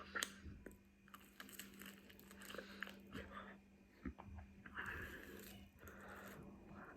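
Biting and chewing a chicken wing close to the microphone: scattered crunches and wet mouth clicks.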